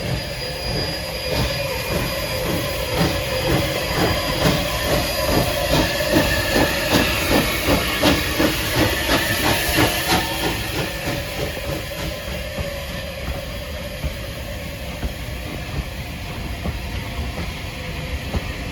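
Steam locomotive 34092 'City of Wells', a Bulleid West Country class Pacific, pulling away from a station with a train: a regular run of exhaust beats at about two a second, with steam hiss. The beats are loudest in the first half, then fade as the train draws away.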